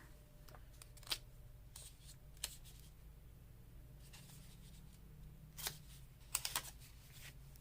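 Quiet handling of paper craft pieces: a few soft clicks and rustles, with a small cluster about six seconds in, over a low steady hum.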